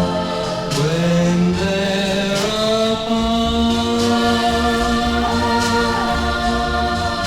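Music: an early-1960s pop ballad record, with voices holding long sustained notes in harmony, one sliding up in pitch about a second in, over a light backing band.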